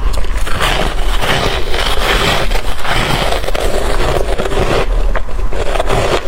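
Mouth chewing shaved freezer frost: a continuous run of crunching and crackling, made up of many small sharp clicks.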